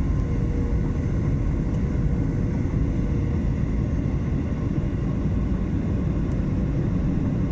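Steady cabin noise of a Boeing 737-800 on final approach: its CFM56 engines and the rushing airflow, heard from inside the cabin, with a faint steady whine.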